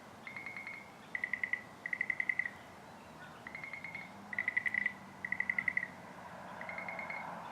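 Frogs calling at a pond: about seven short, rapidly pulsed trills, each about half a second long, repeating at irregular intervals over a faint steady background.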